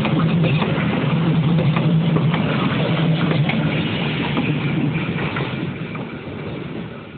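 Diesel-hauled passenger train passing through a station: wheels clicking and rumbling over the rails with a steady low hum, fading away over the last second or two.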